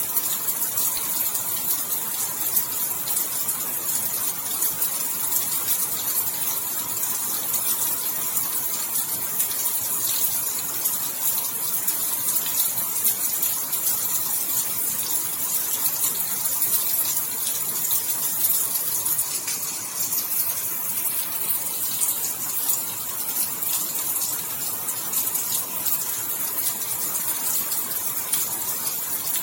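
Steady heavy rain falling at night: a dense, even hiss of countless drops with fine pattering, unchanging throughout.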